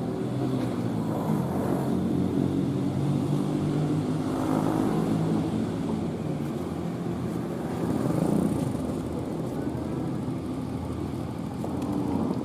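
Motor vehicle engine running, a steady low hum that swells briefly about two-thirds of the way in.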